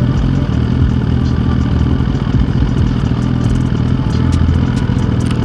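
The 2023 Suzuki GSX-R1000's inline-four engine runs steadily at a constant pitch, with wind noise rushing over the microphone.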